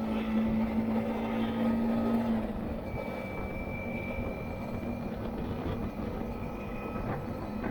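Yamaha MT-15's single-cylinder engine running at road speed under a steady rush of road noise; its low engine note holds for about two seconds and then drops away.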